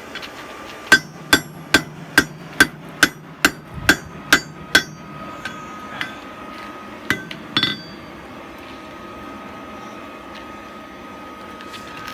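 Hand hammer forging a hot railroad-spike hook on an anvil: a run of about ten ringing blows, roughly two a second, then a pause and a few lighter, scattered taps. A steady faint tone runs underneath.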